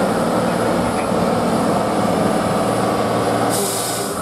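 Competition truck's diesel engine running steadily under load on the trial course, with a short hiss near the end.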